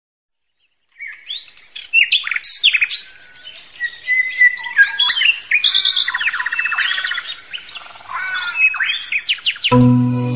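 A songbird singing a varied, rapid run of chirps, rising whistles and fast trills, starting about a second in. Near the end, music with chiming mallet-percussion notes comes in.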